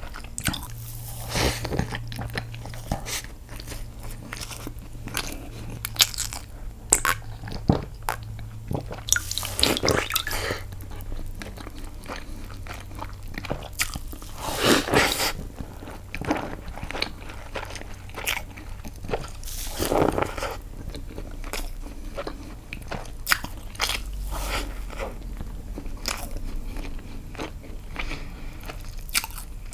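Close-miked eating of castella sponge cake dipped in milk: wet chewing and biting with many small mouth clicks and a few longer, louder bursts of noise.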